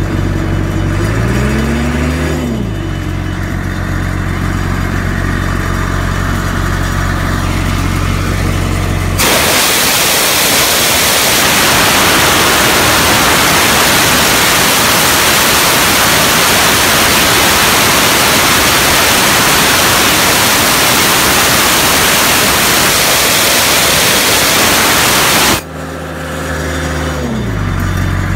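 Diesel engine of a Sullivan D185Q4 towable air compressor running, its pitch rising and falling briefly early on. About nine seconds in, a loud steady rushing hiss of compressed air blowing off drowns the engine for about sixteen seconds, then cuts off suddenly and the engine is heard again, sweeping in pitch once more.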